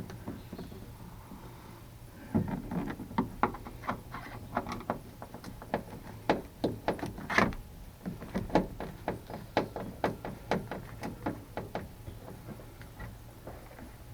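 A run of sharp clicks and light knocks, roughly two or three a second with one louder knock about seven seconds in, from hand work on a pickup truck's interior door panel.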